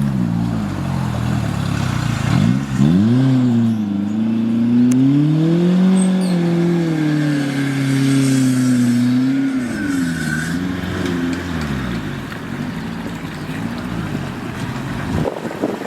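Off-road 4x4's engine revving under load, its pitch climbing, holding high, then falling back about ten seconds in, and fainter after that.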